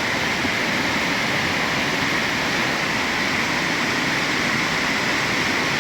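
Steady rushing of flowing floodwater, an even noise that neither rises nor falls.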